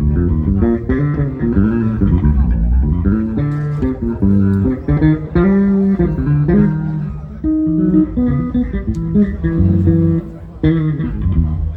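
Electric bass guitar played on its own for a sound check: a continuous run of plucked notes and riffs, heard loud through the PA.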